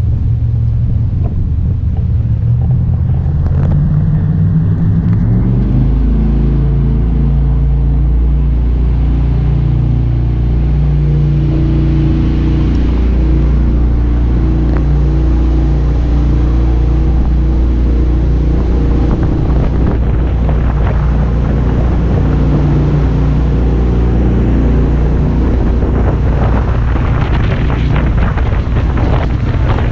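Jet boat engine revving up over the first five seconds or so, then running steadily at speed. A rush of wind and water noise builds in the last third.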